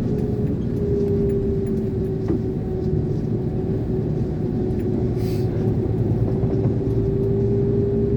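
Iveco 32-ton concrete mixer lorry's diesel engine running steadily under way, heard inside the cab: a low drone with a steady whine held over it.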